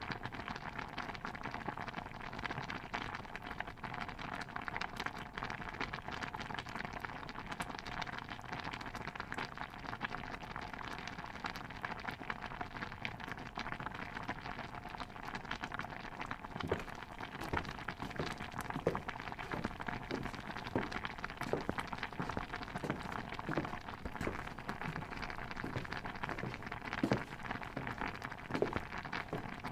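Steady, dense bubbling and crackling patter, typical of a stew boiling in a pot, in a kitchen ambience mix. From about halfway through, irregular separate knocks come in, roughly one or two a second, a few of them louder near the end.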